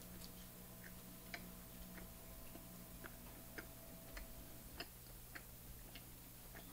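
Faint wet chewing and lip-smacking of a mouthful of cheesy bread, small clicks about every half second over a low room hum.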